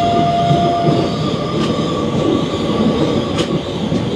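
Indian Railways express train coach running on the track, heard from inside: a steady rumble of wheels on rail with a few sharp clicks, and a thin steady whine in the first second.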